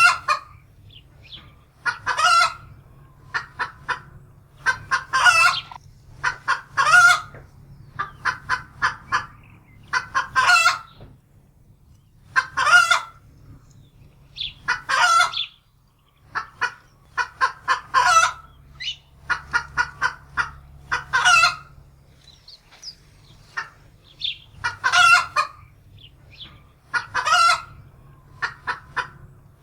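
Domestic hen cackling in alarm: repeated runs of short clucks, each run ending in a longer, louder squawk, every second or two.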